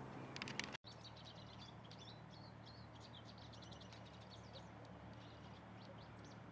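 Faint wild songbird calls: a run of quick, high chirps and short trills, after a few sharp clicks in the first second.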